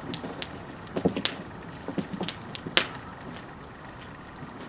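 Fire crackling, with irregular sharp cracks and clicks; the loudest crack comes nearly three seconds in.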